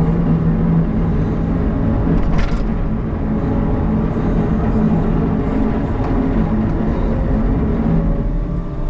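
CAT 906 wheel loader's diesel engine running steadily with a constant hum, and a short click about two and a half seconds in.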